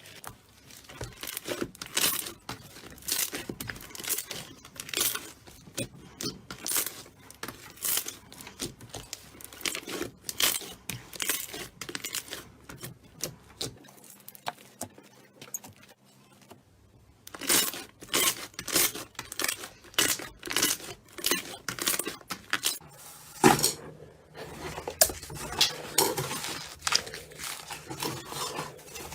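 Slime being squeezed and pressed, giving a run of crisp crackles and clicking pops with louder snaps about once a second, pausing briefly about halfway through.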